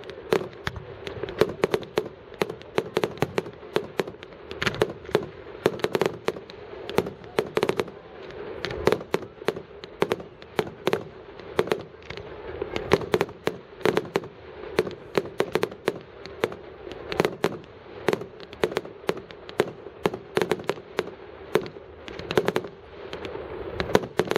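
Fireworks going off: a dense, unbroken run of sharp bangs and pops, several a second.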